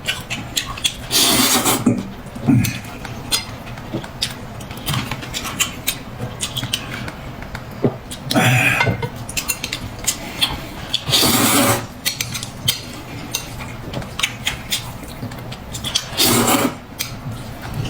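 Cutlery and dishes clinking during a meal, with many small clicks and four louder, short noisy sounds spread through.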